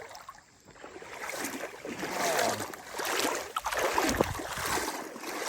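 Legs wading through deep standing water on a flooded trail, sloshing and swishing in uneven swells with each stride.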